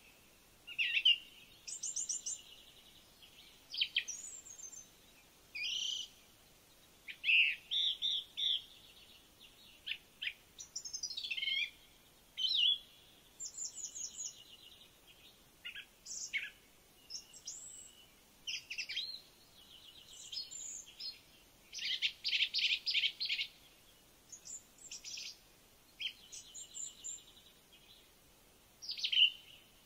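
A songbird singing a varied, high-pitched song of short phrases a second or two apart: whistled notes, quick up-and-down glides, fast trills and rapid runs of repeated notes.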